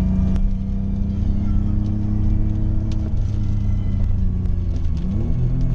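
BMW E34 535i's straight-six engine under way, heard from inside the cabin over tyre and road noise. The engine note sags slowly, then about five seconds in its pitch rises briefly and settles at a new level.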